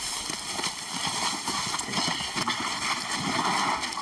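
Shuffling footsteps and handling noise, with irregular scuffs and knocks, as several people carry a heavy sedated lion.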